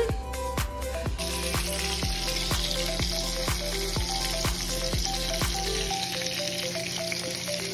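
Ground-meat patties sizzling in hot grease in a frying pan, the sizzle starting about a second in, under background music with a steady beat.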